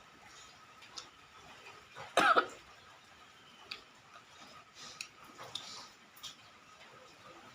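A person coughs once, sharply, about two seconds in, between faint small clicks of eating.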